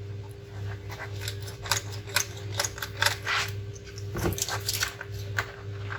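Irregular light clicks and taps of small laptop parts and tools being handled while the laptop is taken apart, over a steady low hum.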